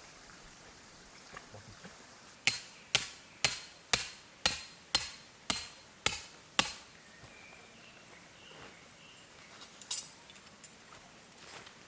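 A hammer striking nine even blows, about two a second, each with a short ringing decay, as when driving a tent peg.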